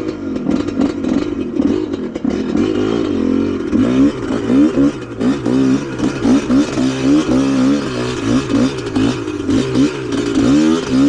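Trail motorcycle engine revving up and down in quick repeated surges under throttle while riding off-road.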